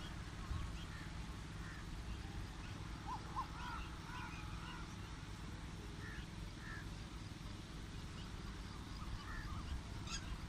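Outdoor bird calls: many short chirps and calls scattered through, over a steady low rumble.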